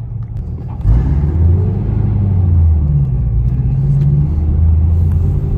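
A car engine running loud and close, coming in suddenly about a second in and holding a low, fairly steady pitch.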